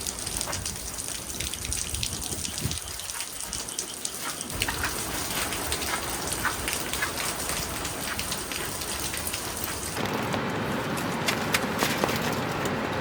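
Heavy rain falling, a dense hiss dotted with many separate drop hits. About ten seconds in it changes abruptly to a fuller, louder rush.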